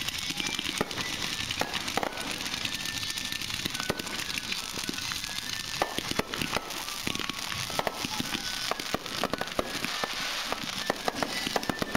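Fireworks going off: dense crackling of many small sharp pops over a steady hiss, with a few louder bangs among them, thickest about halfway through and near the end.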